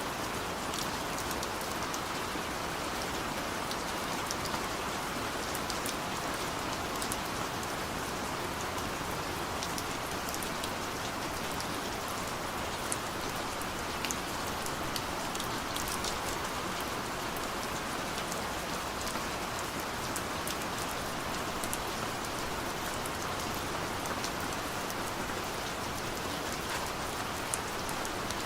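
Heavy downpour: a steady rush of rain, with many single drops ticking sharply on a hard surface.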